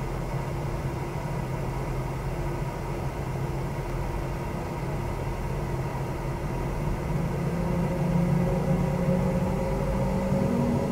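Boeing 717's two rear-mounted Rolls-Royce BR715 turbofans heard from inside the cabin, running at a steady hum, then rising in pitch and getting louder from about seven seconds in as they spool up for the takeoff roll.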